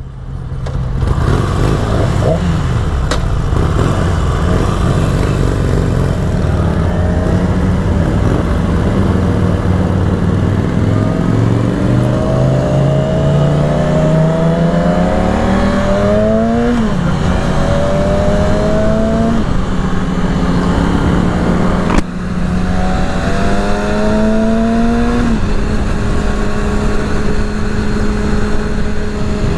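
Yamaha R6's inline-four engine accelerating while riding. The engine note climbs steadily in pitch, drops back sharply at each upshift, and settles to a steady cruise near the end. There is one brief sharp knock partway through.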